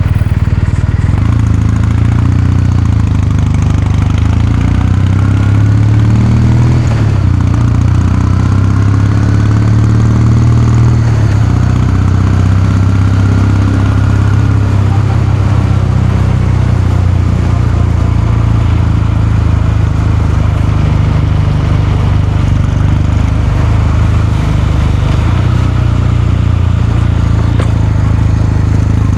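Kawasaki Meguro K3's air-cooled parallel-twin engine and exhaust running steadily at an even, unchanging pitch.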